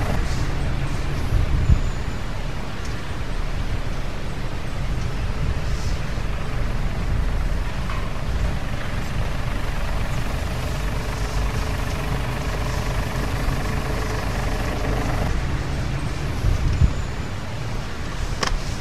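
Jeep driving slowly off-road, its engine and drivetrain giving a steady low rumble, with a couple of brief knocks about a second and a half in and near the end.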